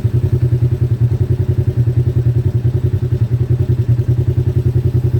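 UTV engine idling with a steady, even throb.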